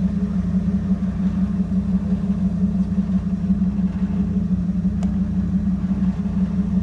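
Ford 460 big-block (7.5 L) gasoline V8 idling steadily through Flowmaster Super 44 mufflers and vertical exhaust stacks, a low even rumble.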